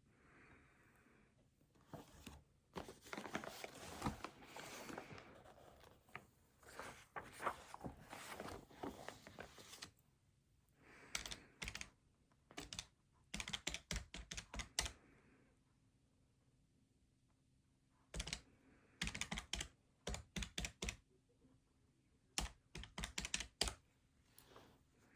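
Keys being tapped rapidly in runs, a dense stretch first and then short bursts of sharp clicks with pauses between.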